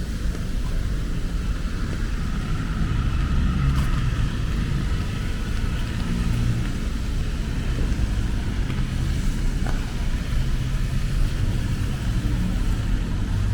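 Steady city street noise in the rain: a low rumble of traffic with an even hiss over it, and a few faint clicks.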